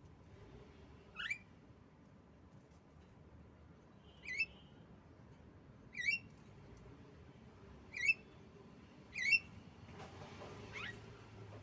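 Female Javan myna (jalak kebo) giving short, sharp, high-pitched calls, five spaced one to three seconds apart and a fainter one near the end.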